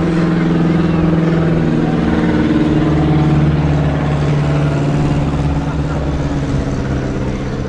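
An engine running steadily at low speed, its pitch drifting slightly up and down.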